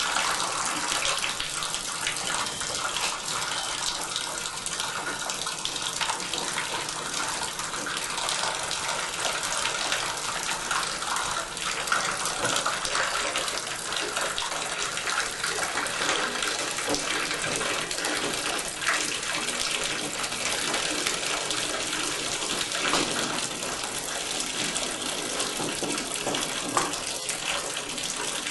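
Water running steadily from the tub spout into the bathtub as the old three-handle tub and shower valve is opened to drain the water still left in it after the supply has been shut off.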